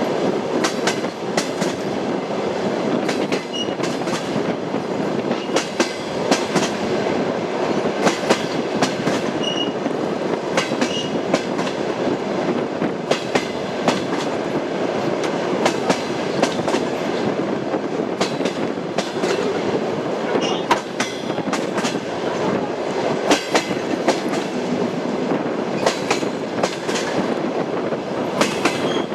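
Train wheels knocking over rail joints on a moving train: a steady rolling rumble with many sharp, irregular clacks.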